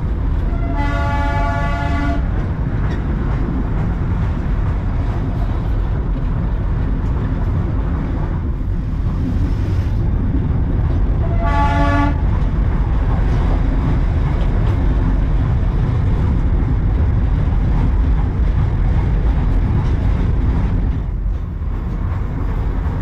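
Darjeeling Himalayan Railway narrow-gauge toy train running with a steady rumble. Its horn sounds twice: a toot of about a second starting just after the beginning, and a shorter toot about twelve seconds in.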